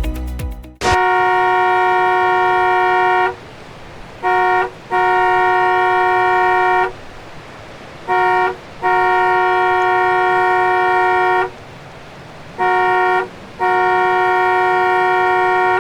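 A horn sounding a chord of several steady tones in repeated blasts, a long blast of about two seconds followed by a short one, over and over.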